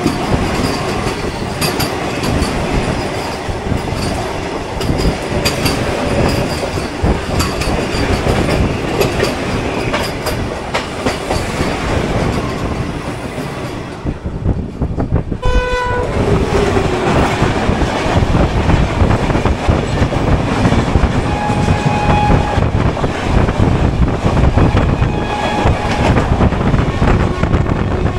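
Inside an LHB sleeper coach of an express train running at speed: steady rumble with wheel clicks over the rails. A train horn sounds briefly about halfway through, sliding down in pitch, and the running noise gets louder after it.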